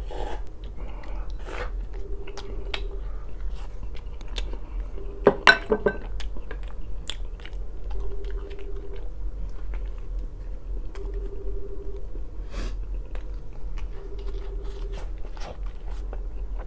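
A man chewing and biting food, with many small wet mouth clicks and one loud crunching bite about five and a half seconds in.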